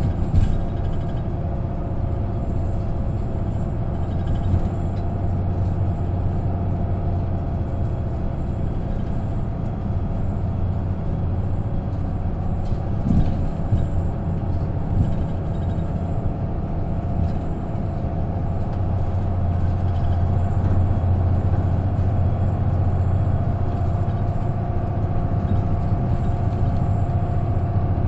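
Inside the cabin of an Isuzu KK-LR233J1 non-step route bus on the move: the engine and drivetrain run steadily with a low drone and a thin whine. The sound grows somewhat louder about two-thirds of the way through, with a couple of short knocks from the body along the way.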